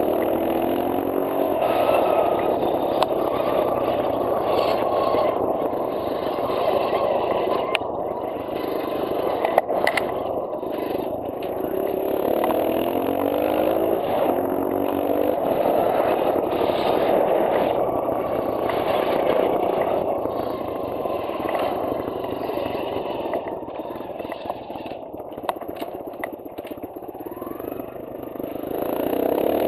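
2009 Kawasaki KLX140L's single-cylinder four-stroke engine running while the dirt bike is ridden, the revs rising and falling several times as it pulls through the gears, with a scraping grind mixed in.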